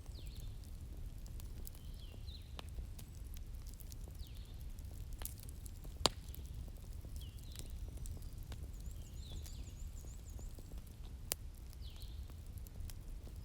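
Bonfire crackling over a low steady rumble, with scattered sharp pops, the loudest about six seconds in. Short high chirps recur throughout, like small birds calling.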